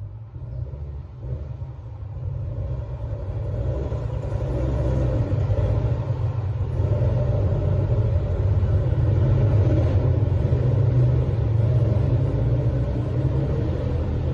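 Dirt bikes on the move: a steady low rumble that builds over the first five seconds and then holds steady.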